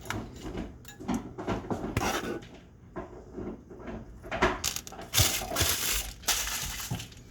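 Small candle pans clinking and knocking as they are set out and handled, in irregular sharp clicks.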